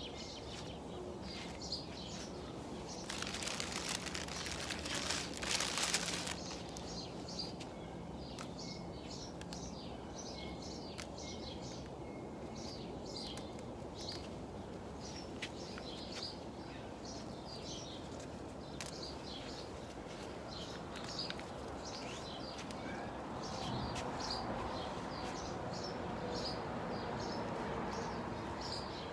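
Small birds chirping again and again, short high calls scattered throughout. Two brief bursts of rustling noise come about three to six seconds in.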